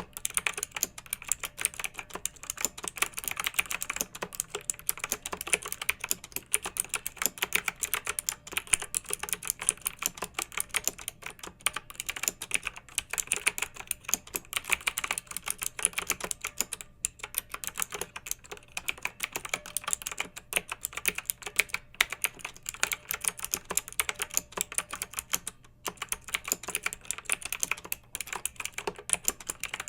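Continuous fast typing on a clicky mechanical keyboard: a dense stream of sharp key clicks, with a few brief pauses between bursts.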